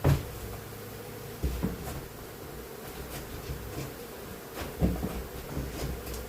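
Honeybee colony buzzing steadily, with several dull knocks, the loudest right at the start and again a little before the end.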